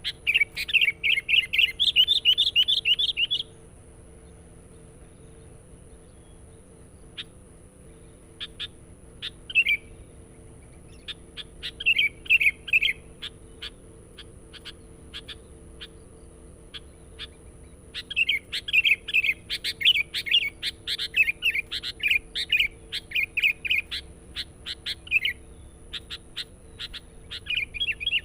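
Sooty-headed bulbul (kutilang) singing rapid, chattering phrases in bouts: a burst at the start, scattered short notes in the middle, a long run in the second half and another starting near the end. A faint steady hum lies underneath.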